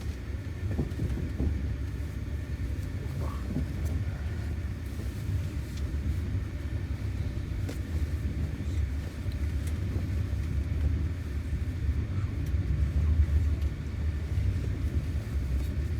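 Steady low rumble of a passenger train carriage running along the track, heard from inside the car.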